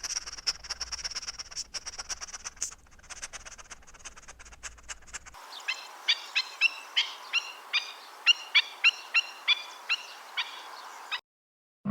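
Bird calls: first a high, continuous twittering with scattered clicks, then from about halfway a run of short, sharp chirps, about three a second.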